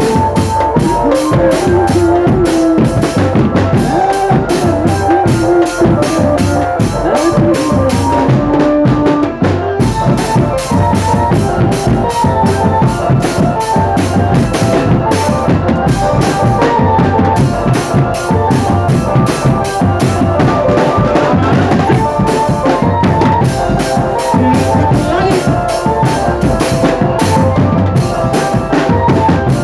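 Marching drum band playing: a dense, steady beat of snare and bass drums under a held melody.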